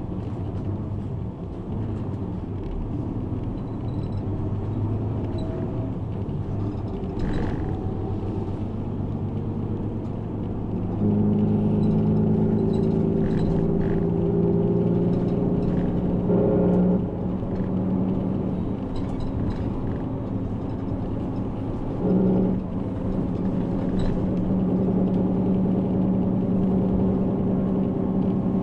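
A route bus's diesel engine, heard from inside the cabin, running steadily at first, then pulling harder with a louder, higher hum from about a third of the way in. The hum dips and picks up again twice, the way it does at gear changes.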